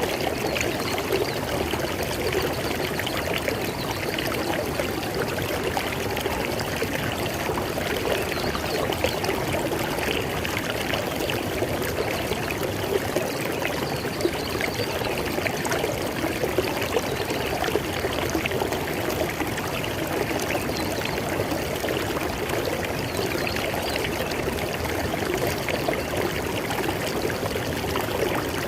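River water flowing over rocks: a steady, even rush with a fine splashing, trickling texture and no breaks.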